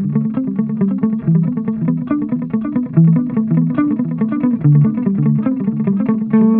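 Electric guitar played through a combination multi-effects pedal's analog delay setting: a fast run of picked low notes, settling onto a held note near the end.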